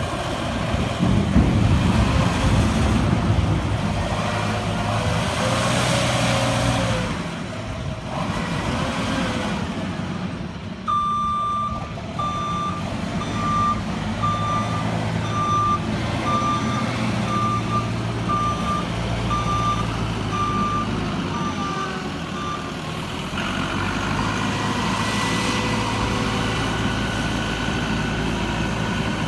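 JCB TM220 telescopic wheel loader's engine working hard under load for the first several seconds, then running on. From about a third of the way in, its reversing alarm beeps steadily at about one and a half beeps a second for roughly twelve seconds, then stops.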